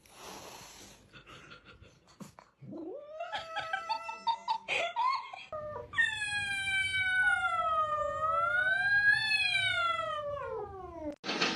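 Domestic cat yowling: a few short rising cries, then one long drawn-out caterwaul that wavers in pitch and slides down before stopping.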